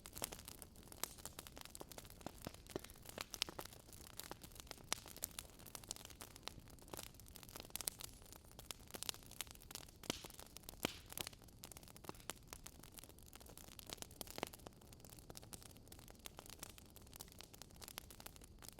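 Wood fire crackling in a fireplace: frequent irregular sharp pops and snaps over a faint steady low hiss.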